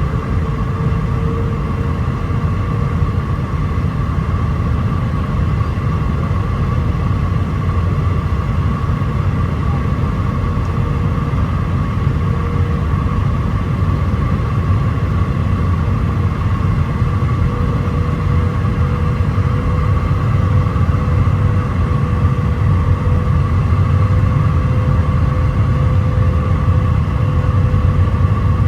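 Airliner cabin noise inside an Airbus A319-131 on final approach: a steady low rumble of airflow and its IAE V2500 engines, with a whine that edges slightly higher in pitch and a fainter, higher tone above it. It grows a little louder toward the end.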